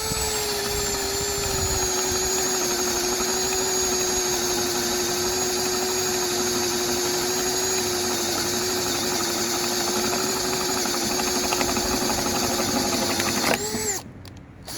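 Bauer 20-volt cordless impact driver on its low-speed setting, driving a large spade bit through a wooden board: a steady motor whine that settles slightly lower in pitch as the bit bites. It stops about a second before the end, then briefly starts again.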